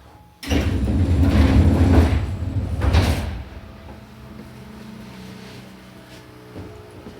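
Passenger sliding doors of a Seibu New 2000-series train moving along their track for about three seconds, with a deep rumble, starting suddenly about half a second in. The stationary train's steady low electrical hum follows.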